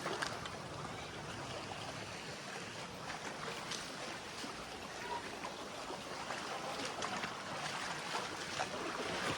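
Running water of a waterfall stream: a steady rush, with a few faint clicks.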